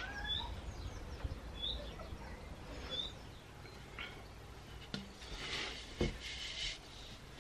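A small bird chirping, three short calls about a second and a half apart, over a low background hum. Around five and six seconds in come a couple of sharp knocks with a brief rustle between them.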